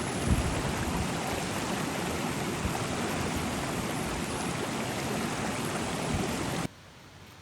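Steady rushing of a stream's flowing water, which cuts off suddenly near the end and leaves only a faint hiss.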